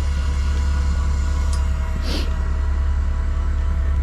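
Steady low drone of a fishing party boat's diesel engine, with a few steady hum tones above it. A short hiss comes about two seconds in.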